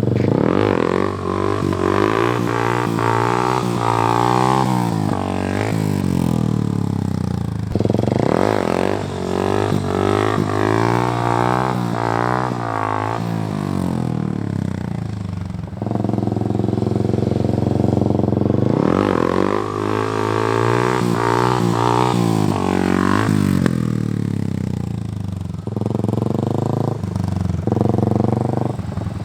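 Dirt bike engine revving in first gear, its pitch climbing and falling back in several long throttle pulls, as when lifting the front wheel for wheelies, with a few short blips near the end.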